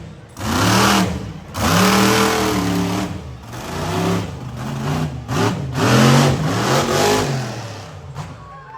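Monster truck engine revving hard in repeated surges, its pitch climbing and falling back each time, then easing off near the end.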